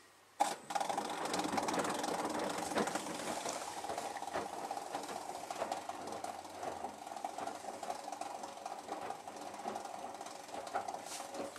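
Hotpoint WMD940 washing machine making an odd mechanical noise: a steady whining hum with rattling and knocking running through it. It starts suddenly about half a second in and cuts off just before the end.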